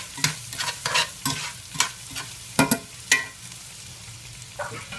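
Chopped onions frying and sizzling in a hot cast iron pan while a utensil stirs them, with irregular scrapes and clicks against the pan that thin out after about three and a half seconds.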